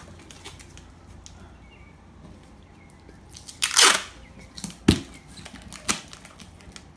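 Packing tape pulled off the roll in one loud rip about four seconds in, followed by two sharp knocks about a second apart, over quiet rustling handling of the parcel.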